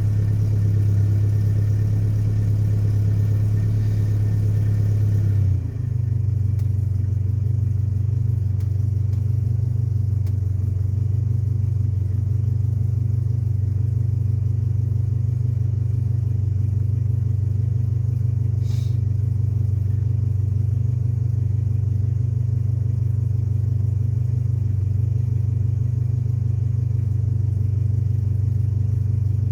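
Nissan 720 pickup engine idling steadily. About five seconds in it briefly dips, then settles to a smoother, slightly lower idle.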